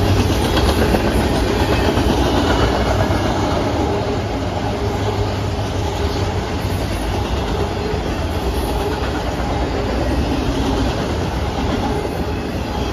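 Norfolk Southern manifest freight train's autorack cars rolling past close by: a steady, loud rumble of steel wheels on the rails with the clickety-clack of the wheels over rail joints.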